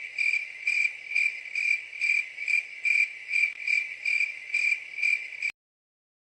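High, insect-like trill that swells about twice a second and cuts off suddenly near the end.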